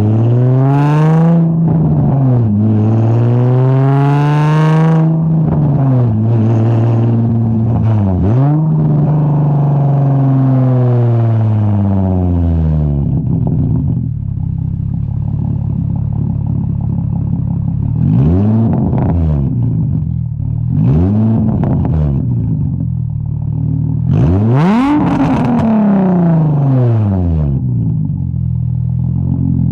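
Straight-piped Infiniti G35's 3.5-litre VQ V6 revved over and over through a single-exit exhaust with no muffling. It pulls up and drops back twice, gives a few quick blips and one held rev, then settles to a steady, rumbly idle about halfway through. It is blipped twice more and given one last rev near the end.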